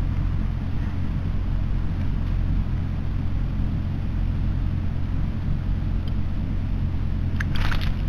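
A steady low mechanical hum, with a short, harsh bird call near the end.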